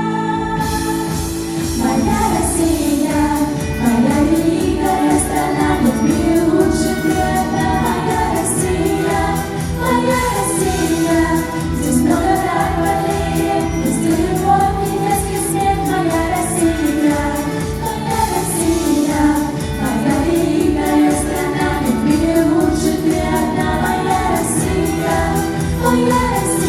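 A song performed live: several voices singing a melody over instrumental accompaniment with a steady beat.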